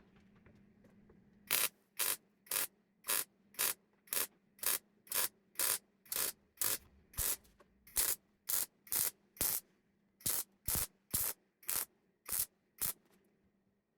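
MIG welder stitch-welding a new steel repair section into a car door bottom: about twenty short bursts of arc crackle, roughly two a second, each a brief trigger pull, starting about a second and a half in. A faint steady hum runs underneath.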